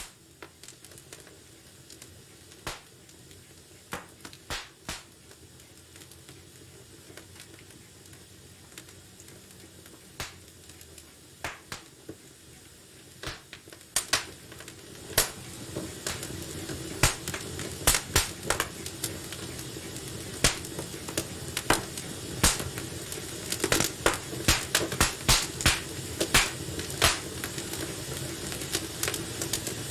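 Wood fire crackling in a fireplace. Scattered sharp pops at first, then from about halfway the pops come thicker and louder over a steady low hiss and rumble of the burning.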